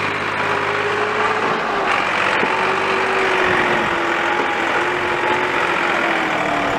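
Massey Ferguson 260 tractor's diesel engine running steadily, its pitch sagging slowly.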